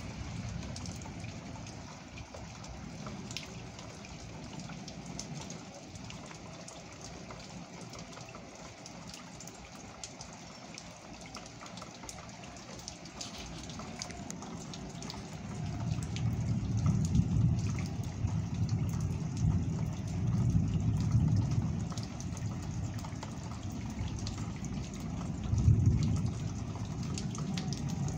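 Steady rain falling, with scattered sharp taps of drops close by. Low rumbling swells build in the second half, the loudest a little before the end.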